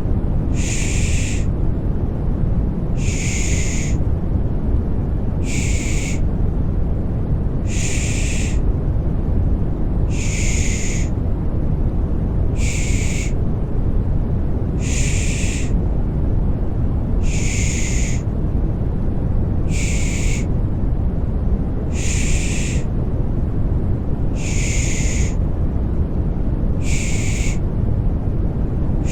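Rhythmic 'shh, shh' shushing for soothing a baby, about one shush every two seconds, alternating slightly longer and shorter, over a steady deep white-noise background.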